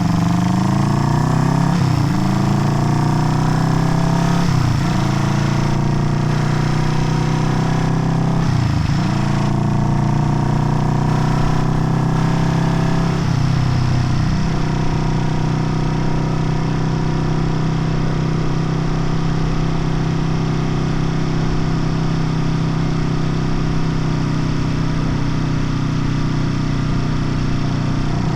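Old Honda CB parallel-twin motorcycle engine pulling through the gears, its pitch climbing and dropping sharply at each of several shifts, then running at a steady cruise from about halfway on.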